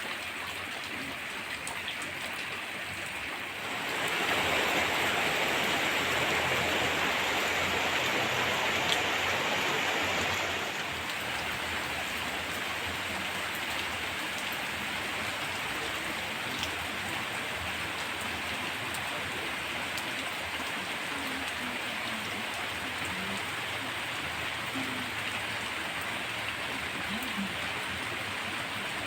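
Heavy rain pouring down in a steady hiss. About four seconds in it grows louder and heavier for several seconds, then eases back to a steady downpour.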